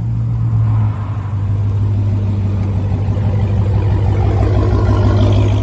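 Vehicle engine running at a steady speed, an even low drone with road noise.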